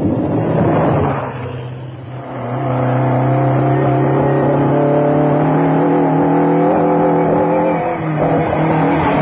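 Rally car driving past at speed over the first two seconds, then an engine held at steady high revs, its note wavering slightly, with a change in the note near the end.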